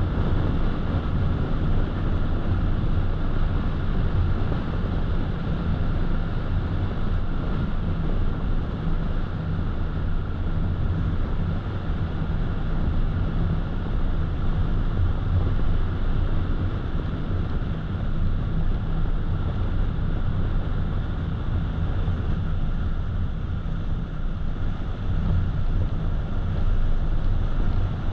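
Road noise of a car driving at a steady pace: a constant low rumble of tyres and running gear, with a hiss over it.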